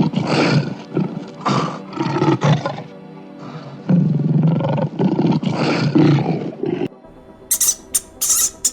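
A big cat roaring and growling in two long bouts, which cut off abruptly about seven seconds in. A few short, high squeaks follow near the end over faint background music.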